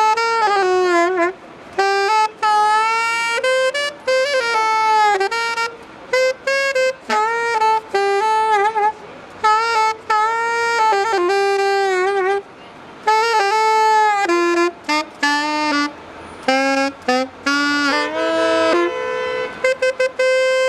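Solo saxophone playing a jazzy melody in short phrases, with bent and sliding notes. Near the end a steady held tone sounds above the moving line.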